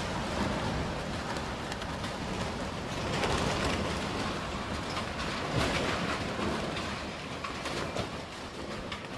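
Storm-force wind blowing, a steady rushing noise that swells about three seconds in, with scattered small knocks and rattles through it.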